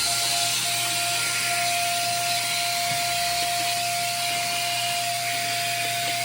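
A steady machine hiss with a constant whine, unchanging throughout.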